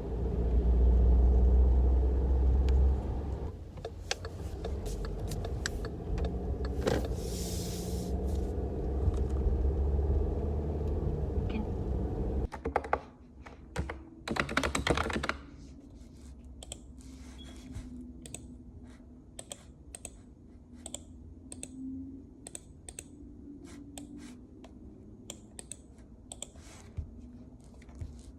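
A steady low rumble for the first part, then, after an abrupt change about halfway through, a quieter run of light, irregular clicks and taps, like typing.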